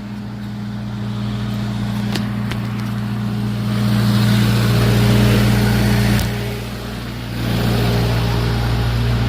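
Vehicle engine idling steadily with a low hum, under a hiss that swells about four seconds in and again near the end.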